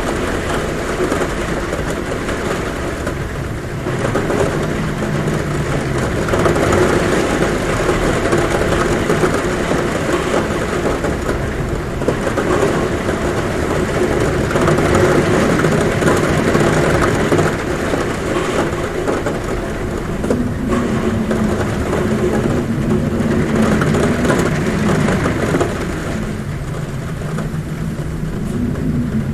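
Heavy rain pouring steadily on a roof, with a low wavering hum of wind at a window running under it and swelling now and then.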